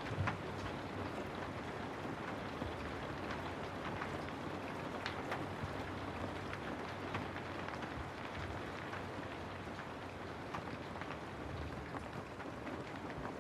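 Steady rain falling on a house, an even hiss with many separate drops ticking and a few louder drips striking hard surfaces.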